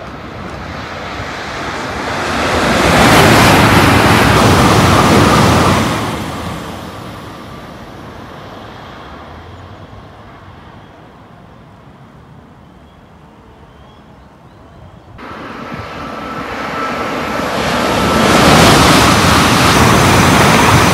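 Two trains passing at speed. Each is a rush of noise with a faint steady tone in it that builds over a couple of seconds, holds, then fades: the first peaks a few seconds in, and the second builds again near the end.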